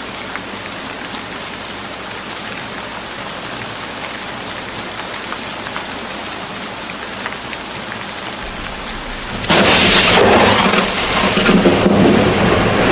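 Steady rain falling, then about three-quarters of the way through a sudden loud crack of thunder that rolls on as a rumble over the rain.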